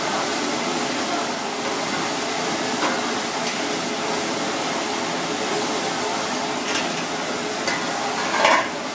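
Egg, cabbage and tofu frying in oil in a cast-iron wok, a steady sizzle, with a few light knocks of utensils and a louder clatter near the end.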